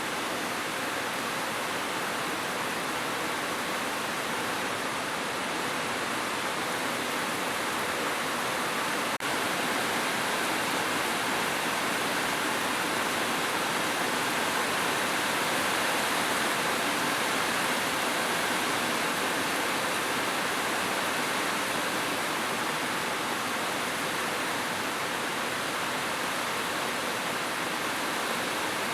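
Heavy rain falling steadily on a roof, an even hiss with no thunder.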